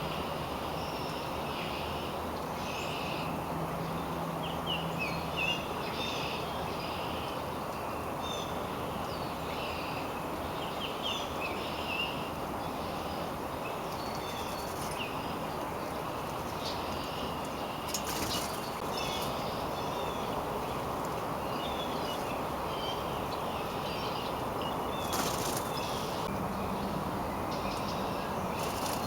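Wild birds chirping and calling in many short notes over a steady low background noise, with a couple of brief rustles.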